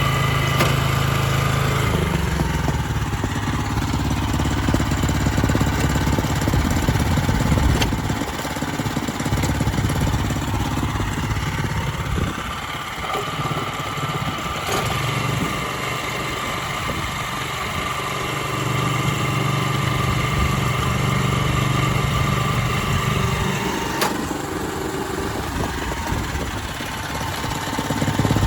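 Kubota TA700 Vegemaster cultivator's 6.2 hp gasoline engine running, its note shifting every few seconds as the speed or load changes.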